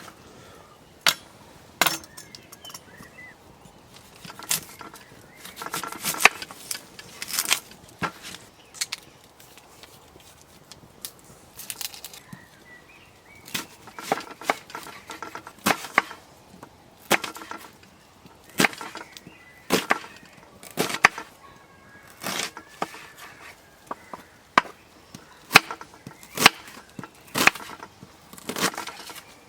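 Knife chopping food on a wooden cutting board: a run of sharp knocks, about one or two a second through the second half.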